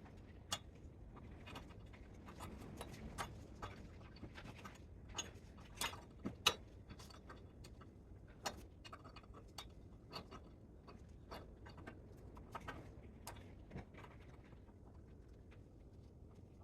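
Irregular light clicks and taps of tools and metal parts being handled during the teardown of a spot welder, a few sharper knocks around the middle.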